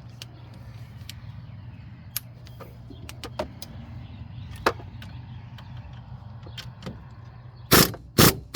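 Scattered metal tool clicks over a steady low hum, then three short, loud bursts near the end, from work tightening a car's front wheel hub.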